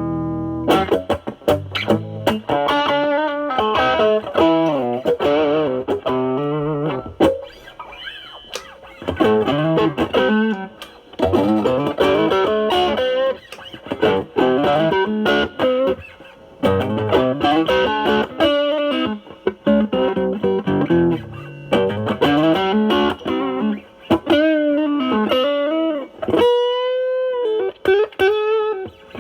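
Semi-hollow electric guitar through a Nobels ODR-1 overdrive into a Marshall Valvestate amp, cleaned up to a mild crunch, playing improvised single-note blues lead phrases. The phrases break off between runs and include string bends and vibrato, with a long bent note wavering near the end.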